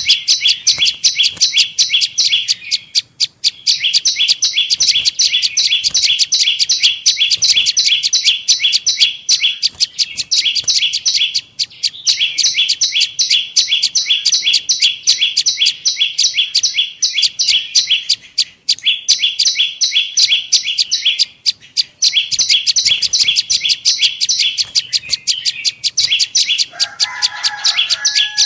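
Prenjak lumut call played as a bird-trapping lure: a fast, steady run of sharp high chip notes, roughly eight to ten a second, in long bursts separated by brief pauses. Near the end a short, lower-pitched call sounds under the chipping.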